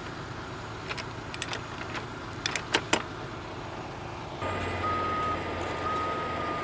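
Sharp metallic clinks and knocks, as of chains and rigging being handled, then about four seconds in the heavy tow truck's engine steps up in speed and a steady high whine joins it and holds.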